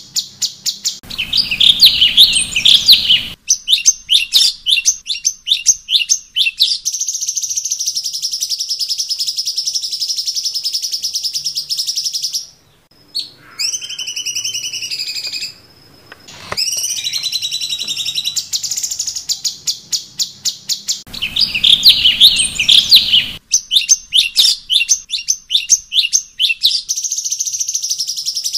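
Cucak cungkok song: fast chattering trills and rapid runs of repeated high notes. About halfway through there is a brief lull with a few softer rising and falling whistles, and then the same song sequence repeats.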